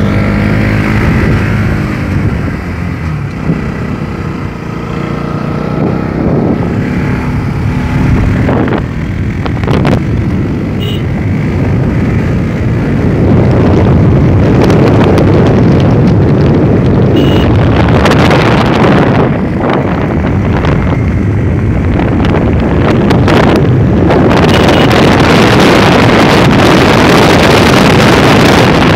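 Motorcycle engine running under way, with wind rushing over the microphone; the wind noise grows louder about halfway through and covers the engine.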